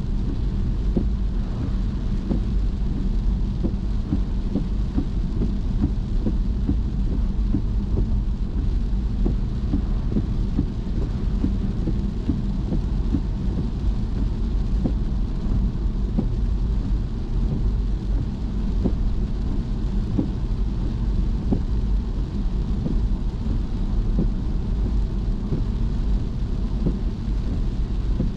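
A car driving on rain-wet roads: a steady low rumble of tyres and engine, with a scattered patter of rain drops or spray throughout.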